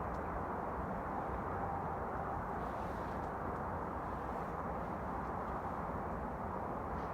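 A loud, unexplained mechanical drone coming from above: a steady, unbroken rumble with a faint steady hum in it and no pauses or changes.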